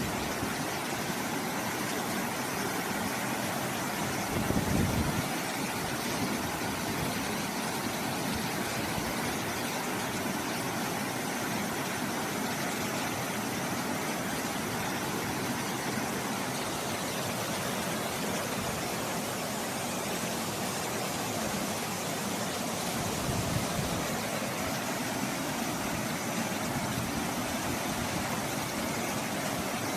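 Waterfall pouring steadily, a continuous even rush of falling water, with a brief louder low rumble about four seconds in and again near the end.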